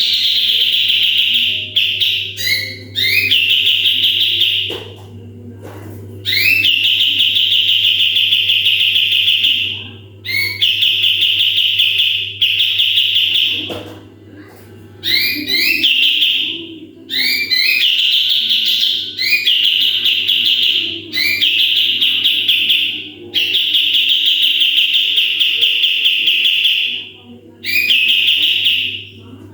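Kapas tembak songbird singing its rapid-fire 'tembakan' song: long, fast, loud trills repeated again and again with short gaps, many phrases opening with a few quick rising notes. A steady low hum runs underneath.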